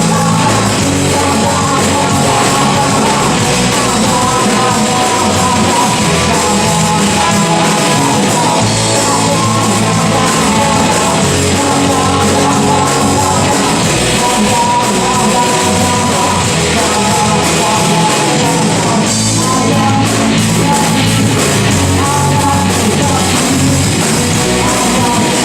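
Live rock band playing loud, driving rock and roll on electric guitar, bass and drums, with singing.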